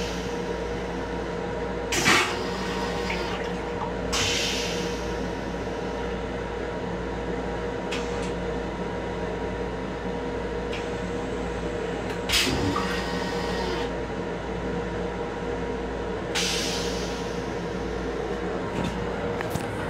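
Metro-North M7 electric railcar running, heard from inside its small restroom: a steady low rumble with a constant hum, broken by brief louder knocks and rattles about two, four, twelve and sixteen seconds in.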